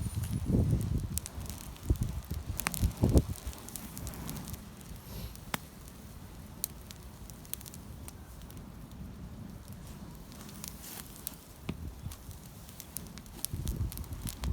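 Wood campfire crackling, with scattered sharp pops and snaps, and some low rumbling in the first few seconds and again near the end.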